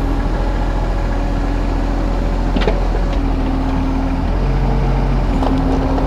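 Kubota U35-3 mini excavator's diesel engine running steadily, with a hydraulic whine that comes and goes as the controls are worked. A couple of short knocks sound over it.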